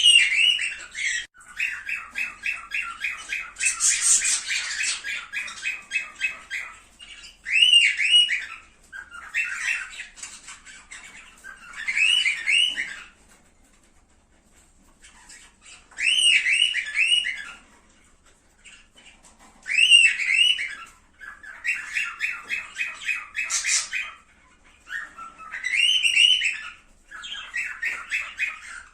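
Cockatiels calling: bouts of rising, whistled calls alternate with fast runs of short chirps, with a pause of about two seconds midway. This is a breeding-stimulation call recording for cockatiels.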